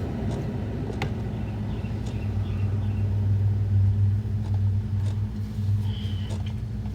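A steady low hum that swells louder in the middle, with a few faint clicks.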